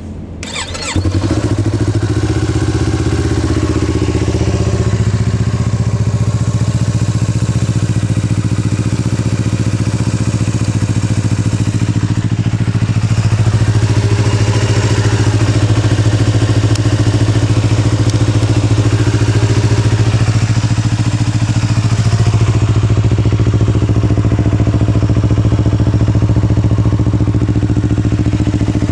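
Yamaha YZF-R25's 249 cc parallel-twin engine starting on the electric starter at the first press, catching about a second in, then idling steadily through an Akrapovič aftermarket exhaust.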